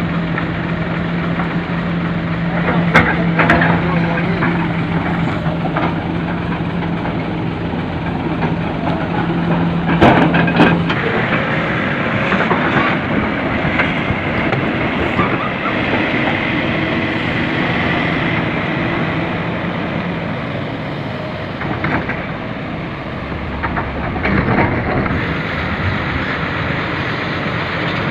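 Hino 500 FM 260 JD dump truck's diesel engine running under way, with a rough rattling clatter and a few sharp knocks. A steady hum drops away about eleven seconds in.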